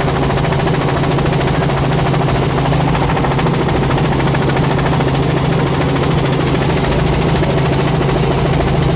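Small helicopter's engine and rotor running steadily in flight, heard from on board: a loud, even drone with a fast, regular chop.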